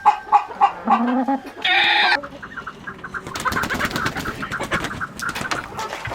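Chickens clucking in a run of short calls, with one louder, harsher squawk near two seconds in; from about halfway, rapid clicking and rustling runs under further clucks.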